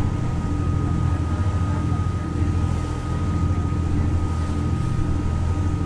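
Steady low drone of a boat's engine, with a thin steady whine above it.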